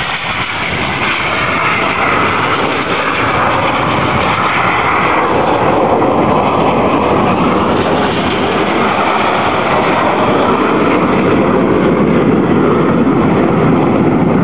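Jet noise from the Red Arrows' BAE Hawk trainers flying past in formation, a loud steady rush that grows a little after the first couple of seconds, with slow sweeps in pitch as the jets move.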